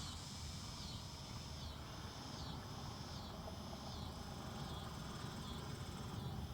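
Insects calling in a steady rhythm of buzzy, high-pitched phrases, about eight in a row, a little more than one a second, over a low wind rumble.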